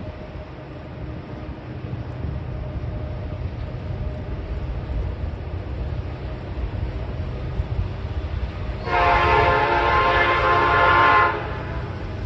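Norfolk Southern SD70ACE diesel locomotives rumbling, growing slightly louder, then one long air horn blast of about two and a half seconds near the end that cuts off sharply.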